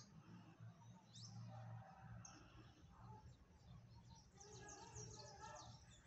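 Faint bird chirps over a low steady hum, with a quick run of chirps about four to five seconds in.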